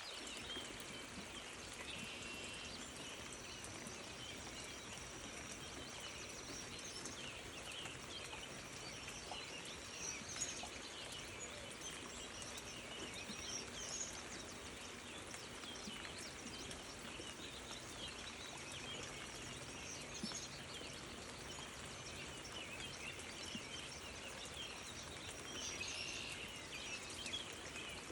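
Small birds chirping and calling over a faint, steady outdoor hiss.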